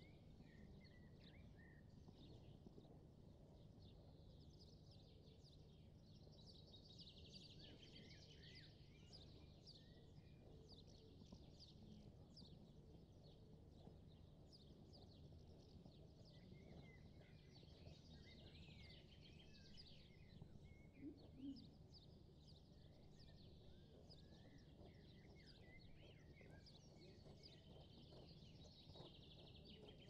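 Faint birdsong: many short chirps and trills from small birds over a low steady background hum.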